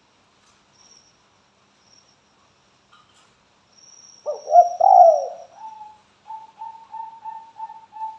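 Spotted dove calling: after a few quiet seconds, a loud cooing phrase about four seconds in, then a string of short, even coos at about three a second. Faint thin high tones sound in the background.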